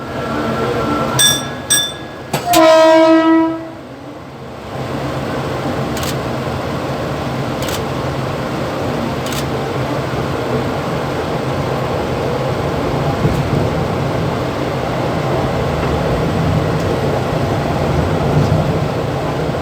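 Mumbai local EMU train heard from its driving cab: two short beeps, then the horn sounds once for about a second. The steady running noise of the train, wheels on rail and traction, then sets in and builds slowly.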